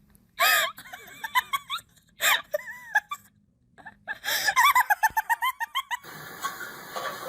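High-pitched laughter in runs of short, rising-and-falling bursts at about four a second. Each run starts with a loud, sudden outburst. The laughter stops about six seconds in.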